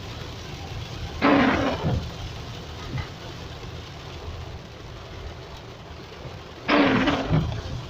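Heavy rain hissing steadily over a low rumble, with two loud rushing surges about five seconds apart.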